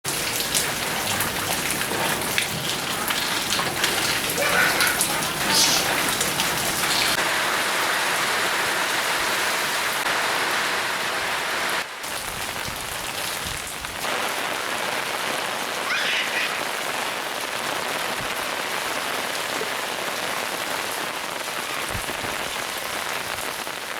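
Heavy rain falling: a steady hiss of rain on the ground, which drops a little in level suddenly about halfway through.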